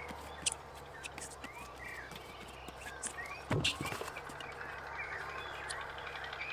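Small birds chirping steadily, with scattered light clicks and a loud knock about three and a half seconds in.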